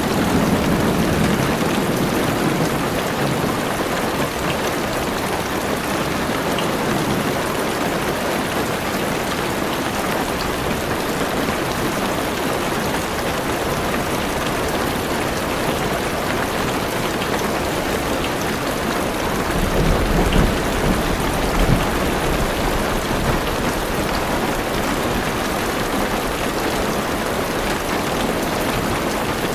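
Heavy rain drumming steadily on a car roof and windows, a dense even hiss, with a low rumble of thunder rolling in about twenty seconds in.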